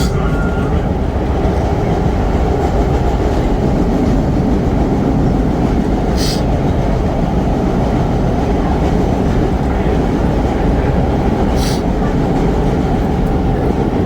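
Vintage R1-R9 subway train running along the track, heard from inside the car: a loud, steady rumble of wheels and running gear. Three short, sharp, hissy bursts break through, near the start, about six seconds in and near the end.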